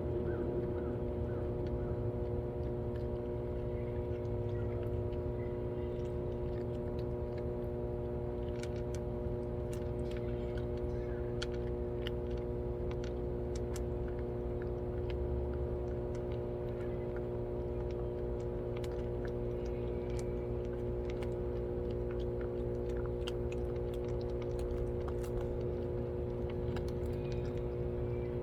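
Steady mechanical hum holding several fixed tones over a low rumble, with faint scattered clicks over it.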